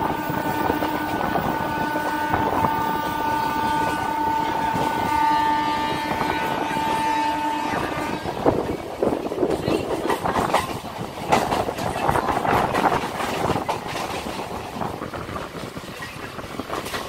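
Electric local train running on a curve: a train horn sounds one long steady blast for about eight seconds, then the wheels clatter and rumble over the track with irregular clicks from the rail joints.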